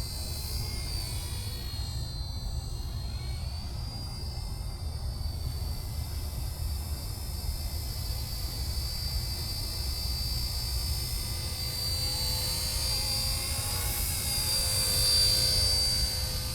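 Radio-controlled UH-1 Huey scale model helicopter flying: a steady high whine that wavers slightly in pitch over a low rumble, getting louder near the end.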